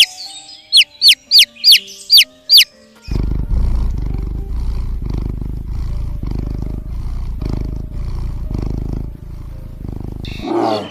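A string of sharp, high chirps, each falling quickly in pitch, for the first few seconds. Then a big cat's deep, rumbling growl, swelling and easing about once a second, that stops just before the end.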